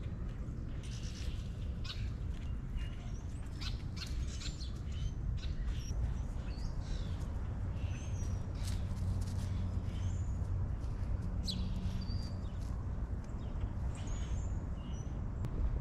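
Small wild birds chirping and calling in short, scattered high notes over a steady low rumble.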